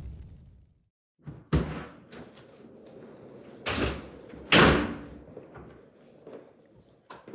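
A door being handled: several knocks and thuds, then two louder bangs about four seconds in, the second the loudest, like a door slammed shut. A fading sound effect tails off at the very start.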